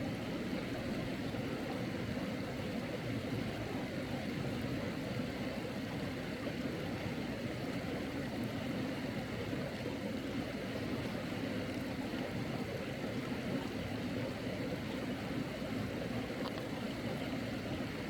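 Steady rushing of flowing water in a mountain stream.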